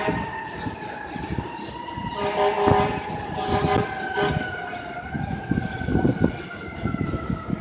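Fire engine responding with its siren on: a long, slowly gliding wail that drifts gradually lower, cut across by two blasts of its air horn about two seconds and three and a half seconds in.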